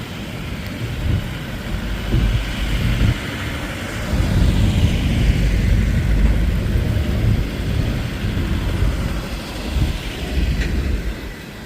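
A heavy vehicle rumbling past, swelling about four seconds in and easing off near the end.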